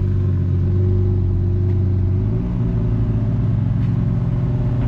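Car engine running steadily at low revs, its pitch stepping up slightly about halfway through.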